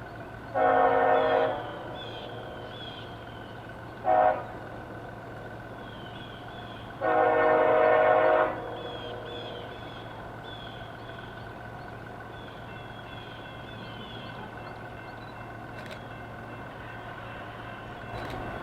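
Locomotive air horn sounding three blasts (long, short, then long) over the steady low rumble of an approaching train.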